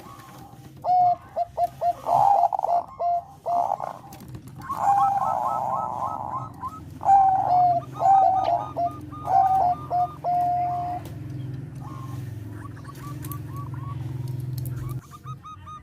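Zebra dove (Thai perkutut bangkok) singing: a rapid series of short, clipped coos, some running together into longer phrases, for about ten seconds before it falls quiet. A steady low hum sits underneath.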